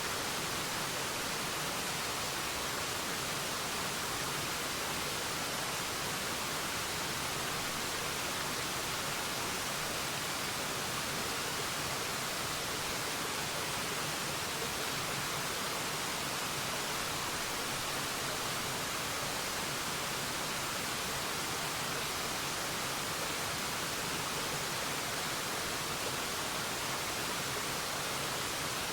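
Waterfall: a constant, even rush of falling water, a steady hiss with no changes or separate splashes.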